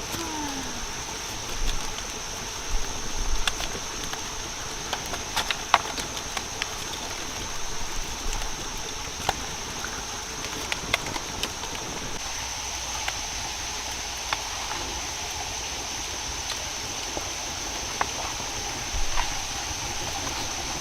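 Outdoor forest ambience: a steady high-pitched hum over a continuous hiss, with scattered sharp clicks and a few soft thumps.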